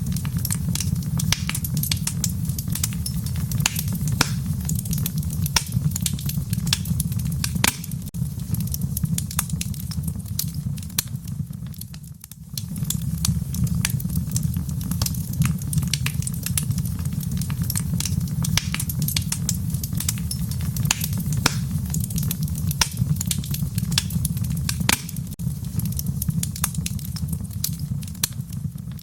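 Fire crackling in a fireplace: frequent irregular sharp pops and snaps over a steady low rumble. It dips briefly about twelve seconds in.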